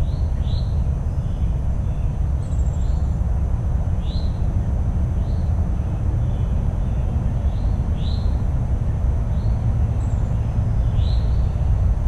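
Small birds chirping, short falling chirps repeated about once a second, over a steady low rumble. A thin steady high tone runs underneath.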